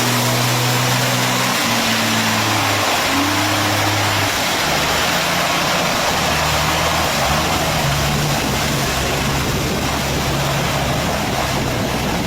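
Dump truck engine running, with a loud steady rush of noise and a low hum that shifts in pitch.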